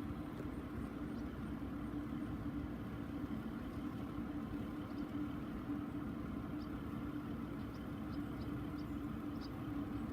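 A steady, even engine hum with a constant low tone and no change in pitch.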